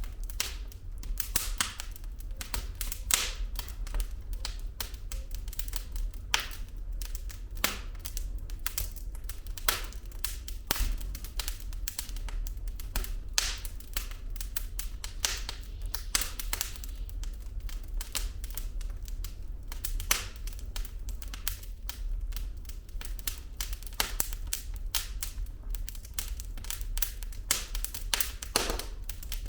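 Wood fire burning in a fireplace: logs crackling with irregular sharp snaps and pops, several a second, over a steady low rumble.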